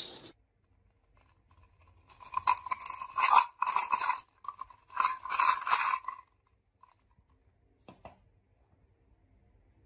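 Marbles rolling and clattering along a wooden marble run, in two spells of rattling from about two to six seconds in, then a single click a couple of seconds later.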